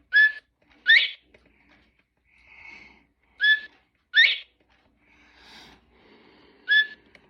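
Recorded northern bobwhite call played by a Mark Feldstein and Associates Wild Gamebirds of North America bird clock: a two-note whistled "bob-white", a short steady note and then a rising one, repeated three times about three seconds apart.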